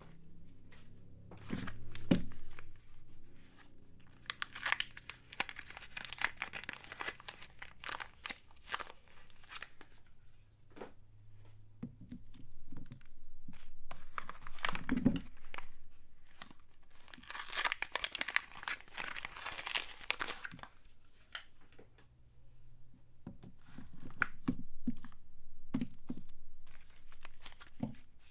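Soap wrapping being torn open and crumpled by hand, in several bouts of rustling and tearing with sharp crinkles in between.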